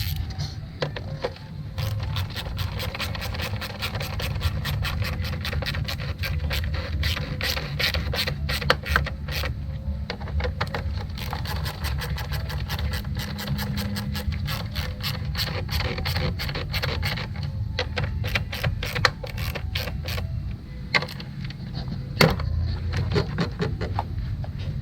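Rapid runs of short mechanical clicks from hand work on the fuse box and its connectors, over a steady low rumble.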